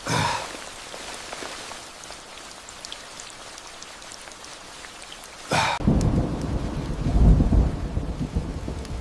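Steady rain hiss, then a sharp thunderclap about five and a half seconds in. The clap is followed by a long low rumble of thunder that swells and fades toward the end.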